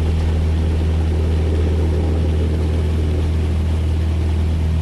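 Cessna 172S's Lycoming IO-360 four-cylinder engine and propeller at full takeoff power during a short-field takeoff roll: a loud, steady low drone that holds one pitch.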